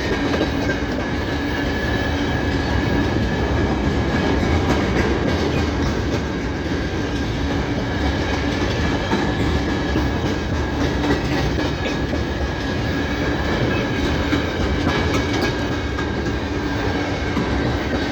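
Train running on rails: a steady rumble and clatter of wheels, with a steady high-pitched tone over it.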